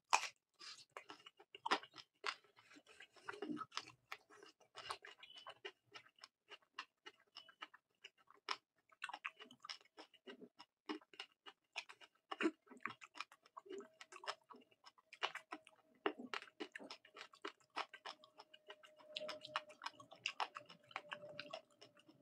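Close-miked chewing and mouth sounds of a man eating curry with rice, a run of irregular clicks and smacks with no speech.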